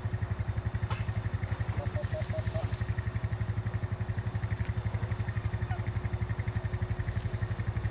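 An engine running steadily at idle-like speed, with a fast, even chugging beat. A few short high chirps sound about two seconds in.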